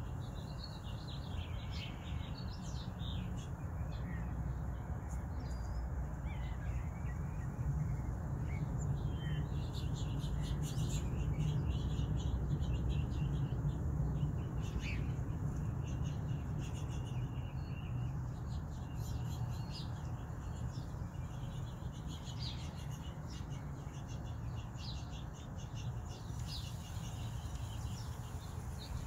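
Small birds chirping and trilling in many short calls, over a steady low rumble.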